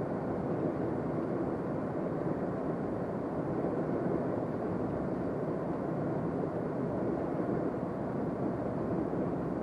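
Lorry driving on the road, its engine and tyre noise heard as a steady rumble from inside the cab.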